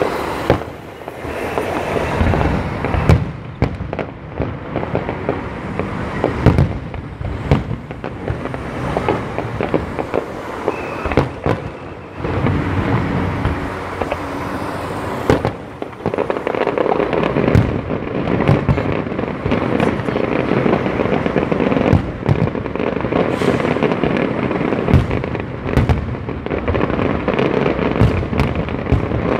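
Fireworks display: aerial shells bursting in quick succession, many sharp bangs over a dense, continuous crackle, with a brief lull about eleven seconds in.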